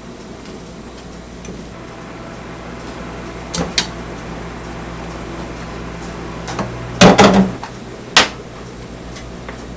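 Kitchen handling sounds: a couple of light clicks, then a loud clatter about seven seconds in and one more sharp knock, over a steady low hum.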